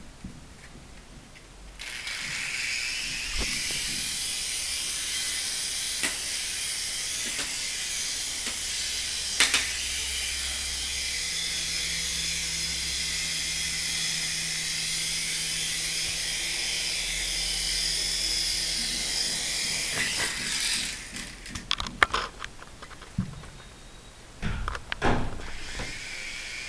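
A toy helicopter's small electric motor and rotor running with a steady high whir, cutting out about twenty seconds in; scattered light clicks and knocks follow.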